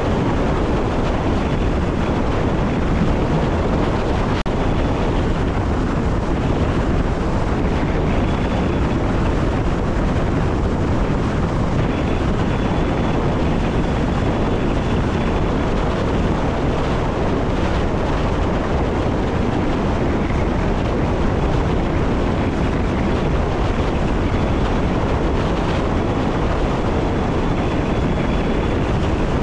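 Electric passenger train running along the line, heard from the driver's cab: a steady rumbling rush of wheels on rails and air. A faint high whine comes and goes.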